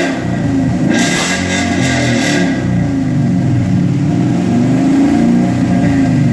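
2015 Mustang GT's 5.0 V8 running through an H-pipe and two-chamber Flowmaster mufflers, the engine note rising and falling as it is revved. About a second in, a hissing rush joins it for a second and a half.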